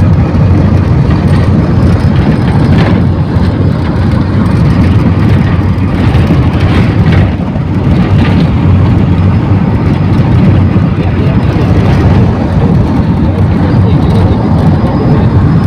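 Steady loud rumble of a moving passenger vehicle heard from inside: engine and road noise, heaviest in the low end, with a brief dip about seven seconds in.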